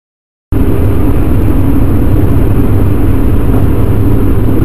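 Loud, steady road vehicle engine and road noise, mostly low rumble, cutting in abruptly about half a second in after dead silence.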